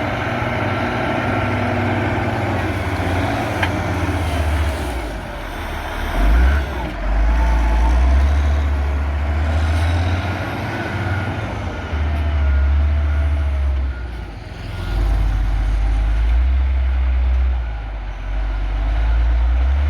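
CAT 140G motor grader's diesel engine working, its low rumble swelling and easing several times as the load changes.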